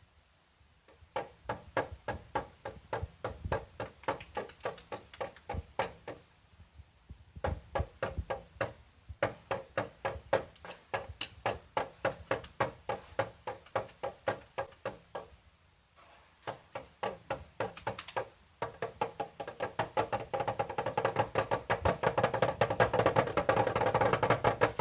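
Rhythmic wood-block-like tapping, about three to four sharp knocks a second with short pauses, growing denser and fuller in the last several seconds.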